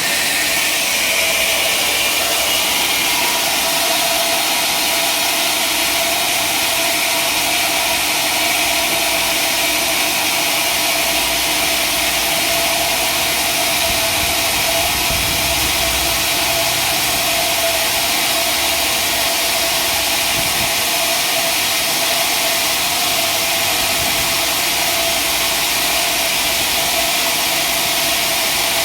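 A sawmill's engine running steadily, a constant mechanical drone with a held mid-pitched tone and hiss above it.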